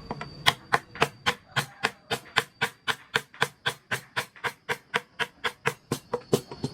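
Wooden mallet rapidly tapping a carving chisel into wood, sharp knocks about four a second, with a brief pause near the start.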